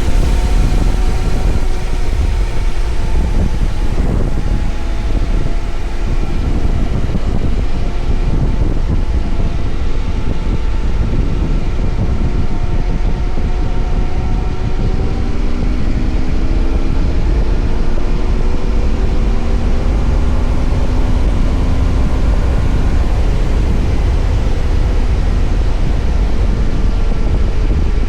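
BMW F800GS parallel-twin engine running under way, its note sliding up and down with the throttle, under a heavy low rumble of wind on the microphone.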